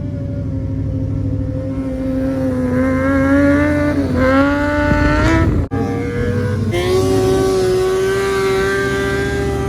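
Vehicle engines running in street traffic, their pitch holding steady, then rising and dipping. The sound cuts out sharply for a moment a little past halfway and comes back at a different pitch.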